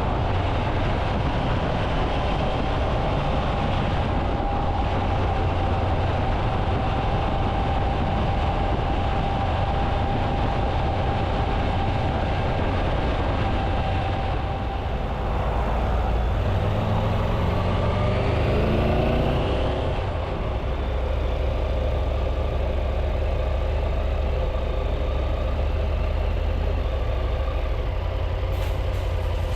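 Triumph Tiger 800's three-cylinder engine running as the motorcycle rides along. A little past halfway the engine pitch rises for a few seconds as it accelerates, then settles back to a steady run.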